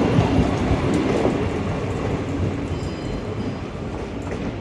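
Renfe Class 447 electric multiple unit running empty through the station, a steady rumble of wheels on rail that slowly fades as it moves away.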